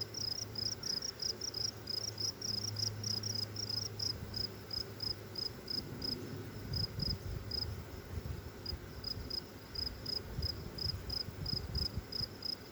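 A cricket chirping steadily, one short high-pitched pulse about three to four times a second, over a low hum and irregular low rumbles.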